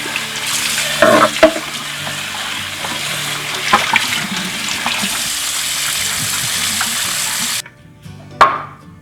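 Kitchen tap running into a sink, with a few knocks of something being rinsed under the stream. The water shuts off abruptly near the end, followed by a single knock.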